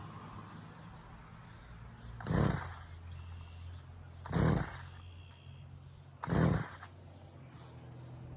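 Three pulls on the recoil starter cord of a Stihl FS 45 string trimmer, about two seconds apart, each a short whir as the freshly rebuilt two-stroke engine turns over without firing.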